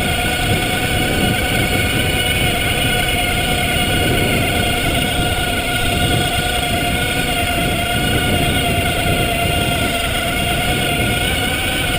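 Electric bike's drive motor whining at a steady pitch while pulling hard up a steep climb in first gear, over a steady low rush of wind on the microphone.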